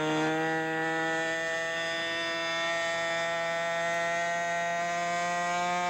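Radio-controlled model airplane engine running at high speed, a steady buzzing note whose pitch rises slowly.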